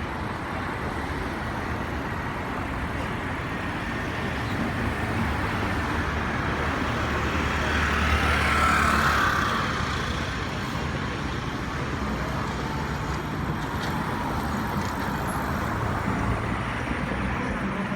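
Jet airliner engines, a steady roar that swells to a peak about halfway through and then eases off, over a continuous background of road traffic.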